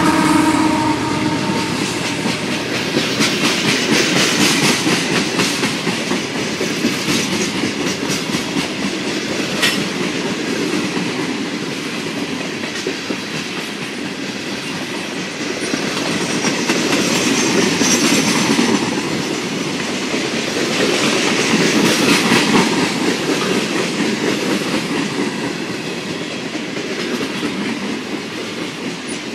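Loaded coal hopper cars of a freight train rolling past at speed: a steady heavy rumble with wheels clicking over rail joints, swelling louder several times. The locomotive horn's last note dies away about a second in.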